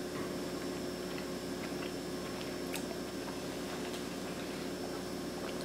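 Faint chewing and mouth sounds of someone tasting a spoonful of soup, over a steady hum of room tone with a few light ticks.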